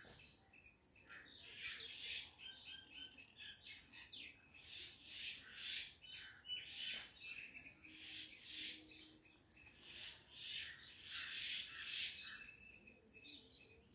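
Birds chirping and calling faintly, in short calls repeated over and over.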